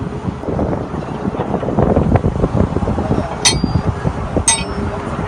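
Truck-mounted water well drilling rig running: a steady low rumble with irregular knocking, and two sharp metallic clinks, one about three and a half seconds in and another a second later.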